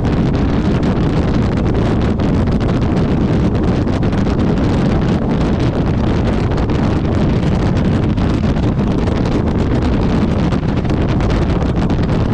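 Wind buffeting the microphone of a motorcycle riding at highway speed: a loud, steady rush with fast flutter, heaviest in the low end.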